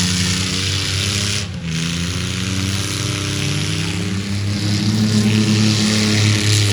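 Mini truck engines running and revving during a demolition derby, their pitch sliding down, then climbing and holding, over a loud rush of noise.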